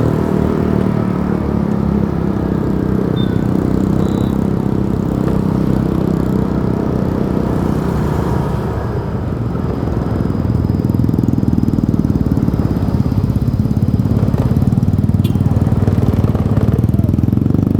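Motorcycle engine running while riding, with road and wind noise. It eases off about eight seconds in, then runs louder again.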